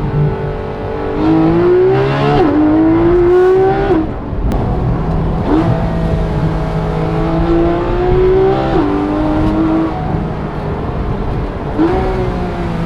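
Porsche GT3 RS 4.0-litre flat-six and exhaust under hard acceleration, rising in pitch through the revs with sharp drops at two quick PDK upshifts and sudden rises at two throttle-blipped downshifts.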